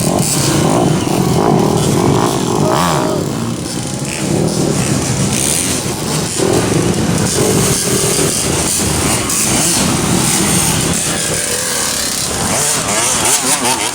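Dirt bike engines running and revving, pitch rising and falling.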